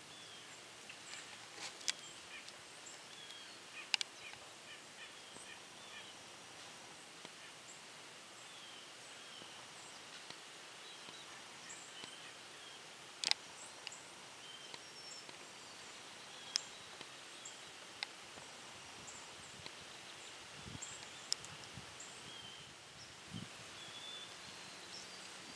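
Faint background hiss with scattered short, high bird chirps and a few sharp clicks, the loudest about halfway through.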